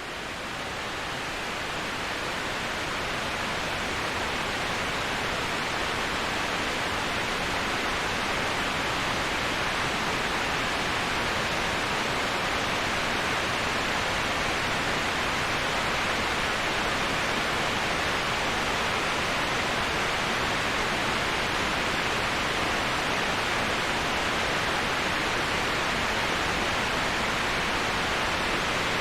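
Waterfall white noise: a steady, even rush of falling water, strongest in the middle and upper range. It swells up over the first few seconds, then holds constant.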